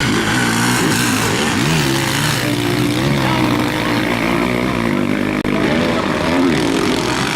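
Several motocross bikes racing, their engines revving up and down with overlapping rising and falling notes.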